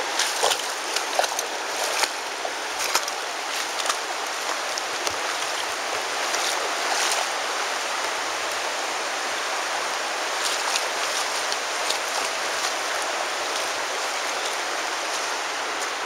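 Steady rush of the Virgin River's flowing water, with scattered splashes from wading steps, busiest in the first few seconds.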